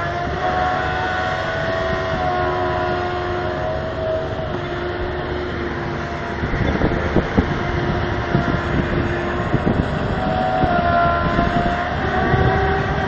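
A heavy vehicle running on a road, its engine giving a steady whine. From about halfway on, loose rattles and knocks join in.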